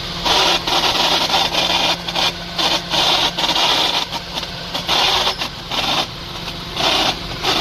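Suzuki Cultus engine running with a steady hum while in gear with the clutch let out, and a harsh noise coming and going in short bursts about once a second. This is the clutch plate noise that is the car's fault.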